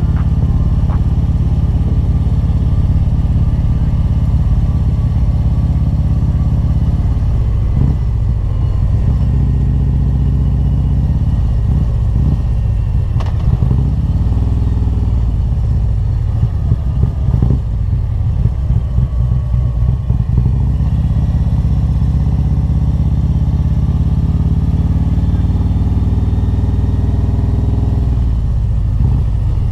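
Harley-Davidson Road Glide's V-twin, fitted with a Stage II cam, Reinhart headers and 4-inch slip-on mufflers, running steadily under way. In the middle stretch the exhaust turns choppier and uneven as the revs drop low.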